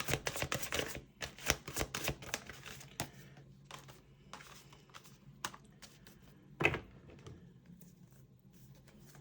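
A deck of tarot cards being shuffled: a rapid run of card clicks in the first second, then scattered single card snaps and one louder knock a little before the end.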